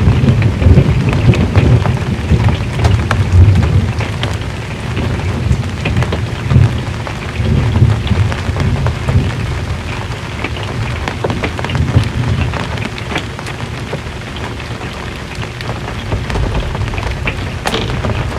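Rain pattering on an RV's metal roof, many small drop clicks, with a low rumble of thunder that dies away over the first few seconds.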